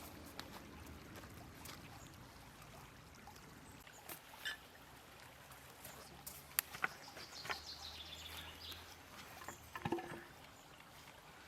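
Faint outdoor ambience with scattered light clicks and knocks, the sharpest about ten seconds in.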